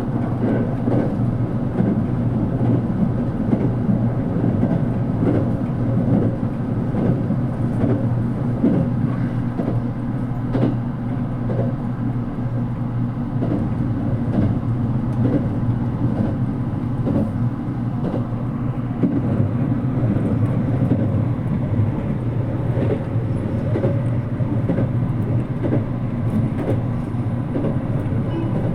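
Running noise inside the carriage of a JR Kyushu 787 series express electric train at speed: a steady low rumble with repeated clicks of the wheels over rail joints.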